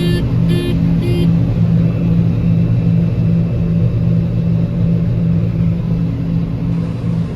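Combine harvester's engine running steadily, with three short electronic warning beeps about half a second apart in the first second and a half.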